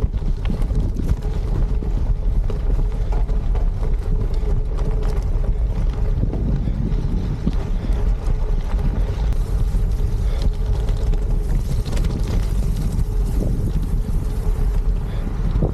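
Wind buffeting the microphone with a steady low rumble while riding a Trek Checkpoint gravel bike, with tyre noise and a scatter of small clicks and rattles from the rolling bike.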